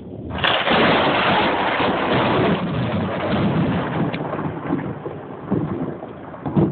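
Thunder: a sudden loud crack about half a second in, then rumbling that slowly dies away over the next several seconds.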